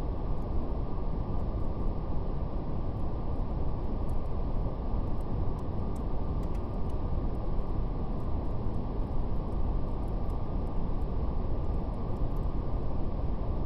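Steady brown noise, a deep even rumble with the treble cut away, with a faint crackle of fire ticking sparsely throughout.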